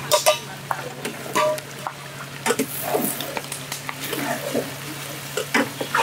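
Pangas fish sizzling as it fries in oil in a wide steel tray, with metal spatulas and slotted ladles scraping and clinking against the pan as it is stirred.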